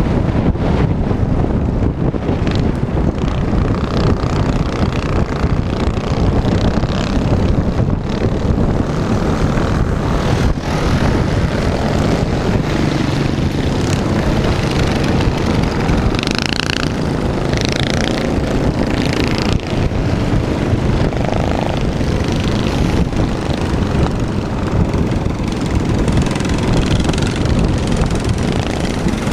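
Small minibike engines running steadily, with wind buffeting the microphone.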